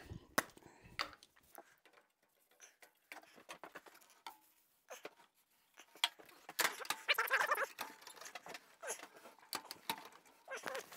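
Scattered light clicks and knocks of metal parts being handled on a rusted Craftsman radial arm saw, with a rougher, rasping stretch lasting about a second a little past the middle.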